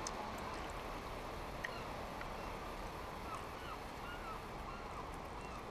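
Birds giving a run of short, curving cries over a steady rushing background, with a single sharp click about a second and a half in.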